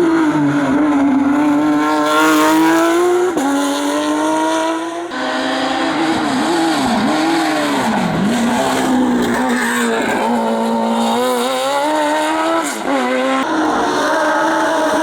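Racing car engines at full attack on a hillclimb, revs climbing through the gears, then dropping and picking up again several times in quick succession around the middle as the car brakes and accelerates through corners. The sound changes abruptly a few times as it cuts from one car to another.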